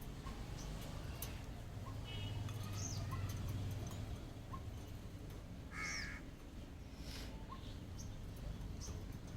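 Pet parrots giving several short squawks and whistled chirps, spaced a second or more apart. The loudest, harsh squawk comes about six seconds in.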